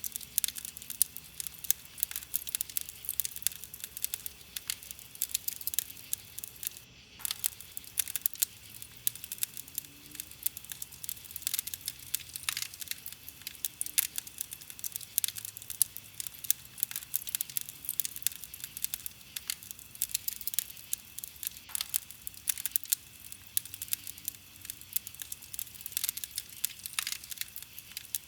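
Wood fire crackling: a dense, steady run of small pops and snaps, with sharper louder ones standing out every second or so.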